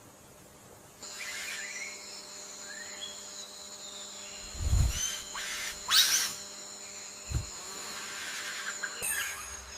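Bird calls: short chirps and a sharp rising whistle about six seconds in, over a steady high-pitched drone, with two low thumps.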